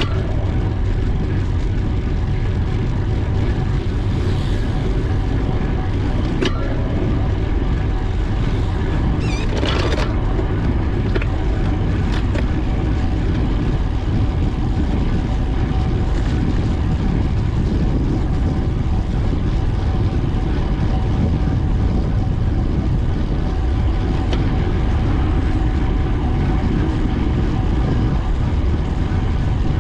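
Steady rushing wind and road rumble on the microphone of a camera riding on a moving bicycle, with a few brief higher sounds about six and ten seconds in.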